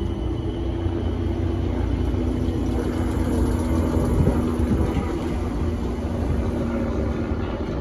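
A pair of Class 455 electric multiple units pulling away: a steady low rumble of wheels and running gear with a steady electric hum over it.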